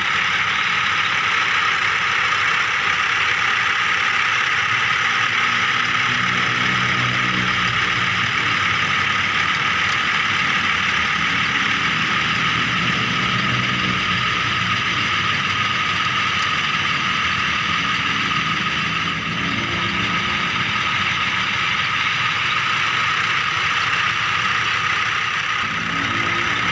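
Small motors and gears of a miniature remote-control toy vehicle running, giving a steady high whine. A lower hum under it swells and fades several times.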